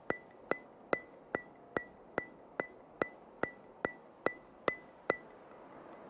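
Steady ticking: a series of sharp clicks with a brief ringing tone, about two and a half a second, thirteen in all, stopping about five seconds in.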